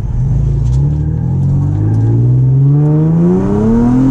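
A car engine accelerating hard, its pitch climbing steadily and smoothly over several seconds as the revs rise.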